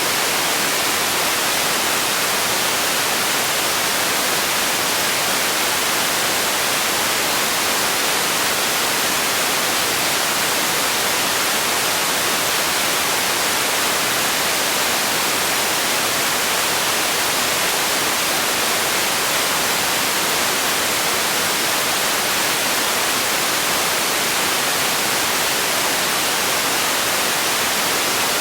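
Steady, unchanging hiss of generated noise, even and static-like, with most of its energy in the upper range.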